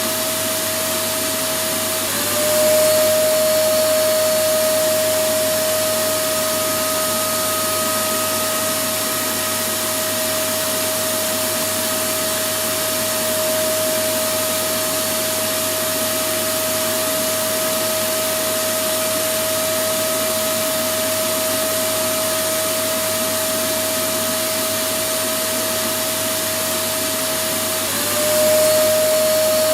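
Electric vacuum cleaner motor running steadily, a constant rushing noise with a high whine. About two seconds in and again near the end, the whine dips briefly and returns a little louder.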